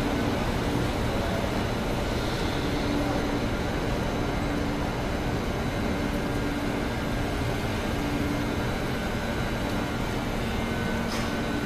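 Passenger coaches of a Russian express train rolling past along the platform as the train pulls into the station: a steady rumble of wheels on rail, with a low hum over it.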